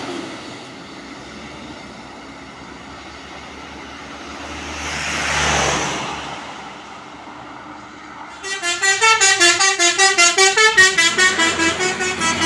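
A vehicle passes, its noise swelling and fading about halfway through. In the last few seconds a loud multi-tone musical horn on a passing bus or truck sounds rapid pulsed notes, about four a second, stepping up and down in pitch like a little tune.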